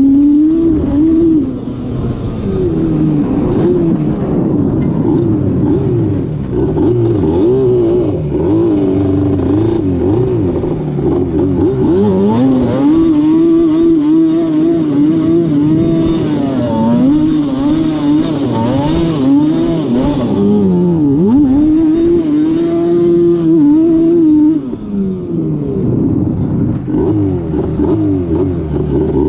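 Yamaha Banshee's two-stroke twin engine, bored out with a Cheetah 426 big-bore kit, revving hard under riding, its pitch climbing and falling every second or two. The revs dip sharply about two-thirds of the way in and it eases off briefly near the end before pulling again.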